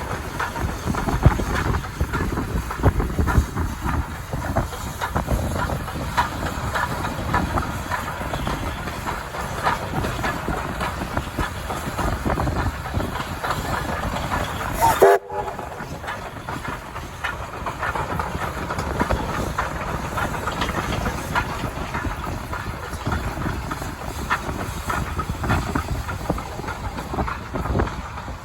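A train hauled by steam locomotive SAR T251 running along the track, with a dense clatter of wheels on the rails. The sound breaks off abruptly about halfway through and then picks up again.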